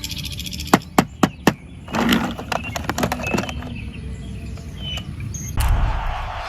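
Four sharp clicks about a quarter second apart, followed by lighter scattered clicking and rustling.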